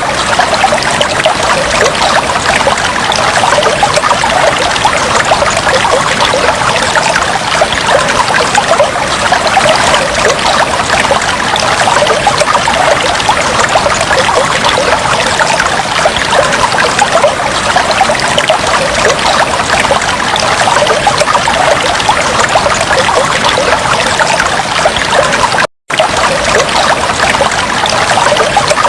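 Aquarium water trickling and bubbling steadily. It cuts out completely for a split second about 26 seconds in.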